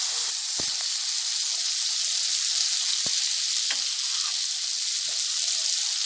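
Spiced tomato masala sizzling steadily in hot oil in a kadhai as it is stirred with a wooden spatula, with two faint knocks.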